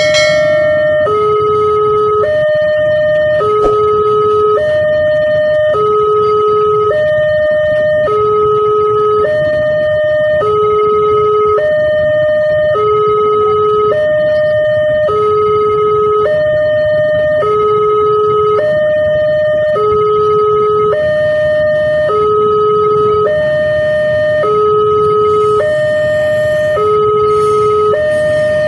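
Railway level-crossing warning alarm sounding steadily: a two-tone electronic hi-lo signal that switches between a lower and a higher note about every second, warning that a train is approaching and the crossing gate is closing. A low rumble runs underneath.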